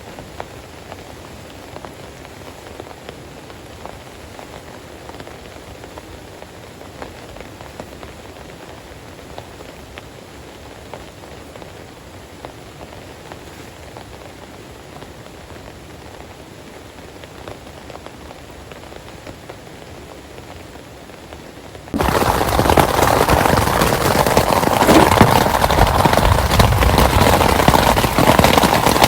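Steady rain falling, with individual drops ticking. About 22 seconds in it cuts abruptly to a much louder, heavy downpour.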